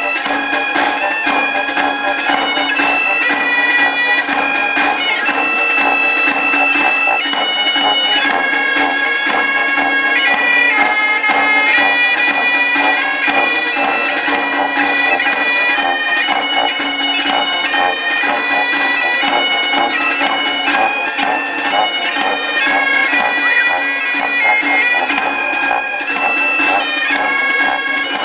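Bagpipes playing a tune over a steady held drone note, the melody moving in stepped notes above it.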